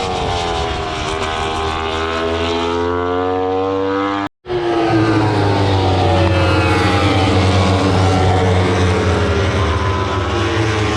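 Racing motorcycle engines at high revs: the pitch sinks as the bikes slow and climbs again as they accelerate. The sound cuts out briefly about four seconds in, then more engines continue.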